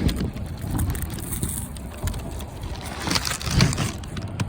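Wind buffeting the microphone, a low uneven rumble.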